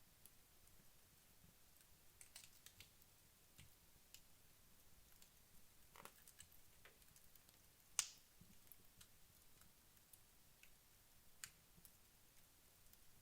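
Wood fire burning down in a fireplace: faint, sparse crackles and small pops from the logs, with one louder pop about eight seconds in.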